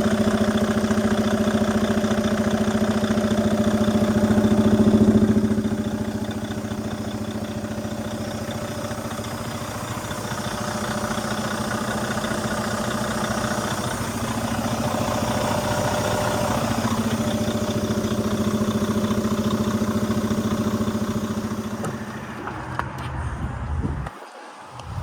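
Detroit DD13 diesel engine of a Freightliner M2 truck idling steadily, its sound swelling and fading a couple of times before dropping away near the end.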